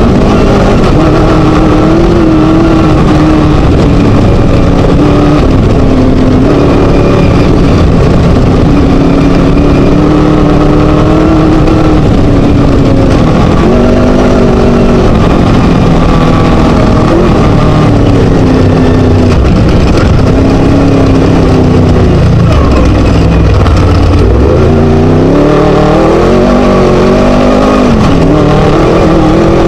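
Scat V4 engine of a Class 1 Chenowth DR2 desert race buggy running hard and loud, its pitch rising and falling with the throttle. About three-quarters of the way through, the revs drop away and then climb again.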